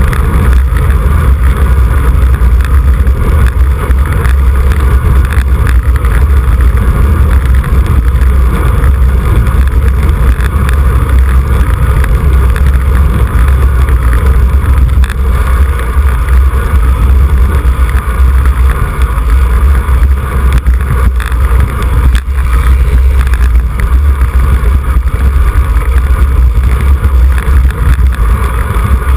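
Loud, steady wind rush on the microphone of a camera carried on a racing bicycle during a road race, mostly a low rumble of buffeting.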